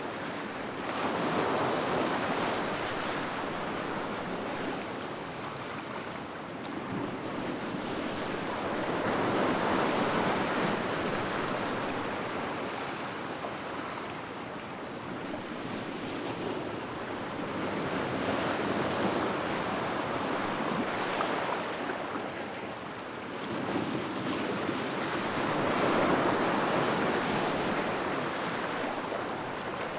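Sea waves breaking and washing in, a steady rush of surf that swells and fades about four times, roughly every eight seconds.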